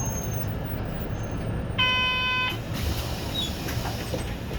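City bus idling at a stop with a steady low engine hum; about two seconds in, a single electronic beep sounds for under a second.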